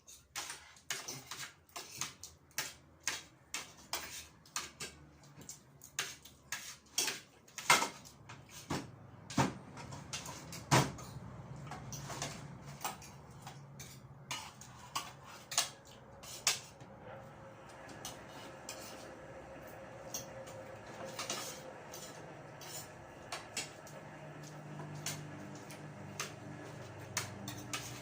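Cutlery clinking and scraping against plates as people eat, a rapid run of sharp clinks for the first half, thinning to occasional clinks later.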